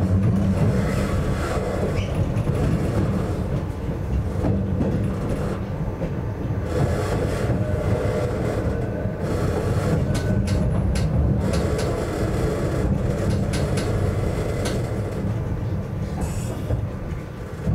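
Narrow-gauge Yokkaichi Asunarou Railway electric train running, heard from inside the car: a steady low rumble with wheel clicks over the rail joints, growing quieter toward the end.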